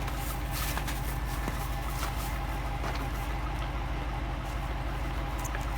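Vehicle engine idling: a steady low hum, with a few faint clicks over it.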